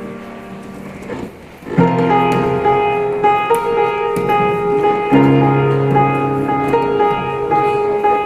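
Solo piano music: a held chord fades away, then about two seconds in a new phrase begins, a repeated melody line over sustained bass chords.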